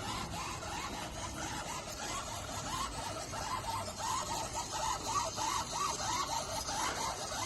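Small motorised wiper mechanism running with a rapid string of short squeaks, strongest in the second half, over a steady hiss.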